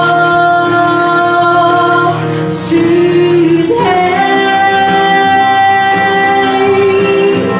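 Live pop ballad: a female singer holds two long notes over instrumental backing, the second starting about halfway through.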